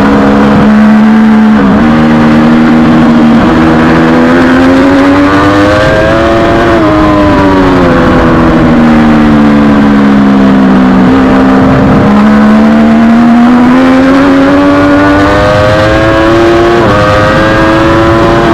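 Triumph Daytona 675R three-cylinder engine at full race pace. Its note climbs and drops abruptly at each upshift, falls steadily for several seconds midway as the bike slows, then climbs again through the gears.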